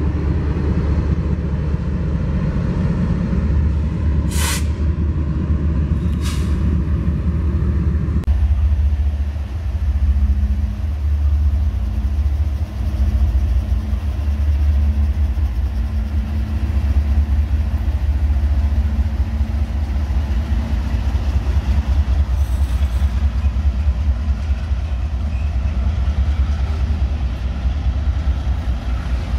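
BNSF diesel freight locomotives and double-stack container cars passing close by, with a steady heavy low rumble. Two short sharp hisses come about four and six seconds in. About eight seconds in the sound changes abruptly to a steadier engine hum over the rumble of the passing cars.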